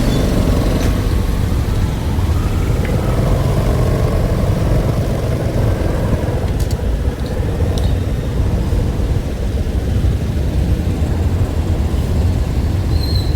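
Steady low rumble of a running vehicle, even and unbroken, with a few faint clicks.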